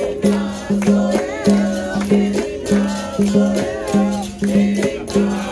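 Capoeira roda music: a berimbau's twanging notes with a caxixi shaker in a steady rhythm, under group singing.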